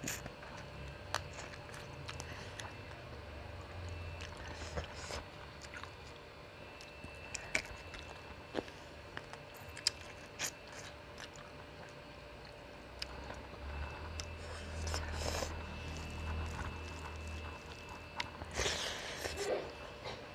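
Close-miked chewing of a mouthful of rice and curry eaten by hand, with scattered short wet mouth clicks and a couple of louder smacking bursts near the end.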